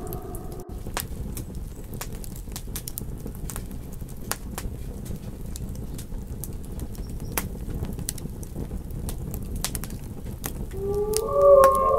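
Campfire crackling, with scattered sharp pops and snaps over a low steady rush. Near the end, wolves begin howling, long held tones swelling up over the fire.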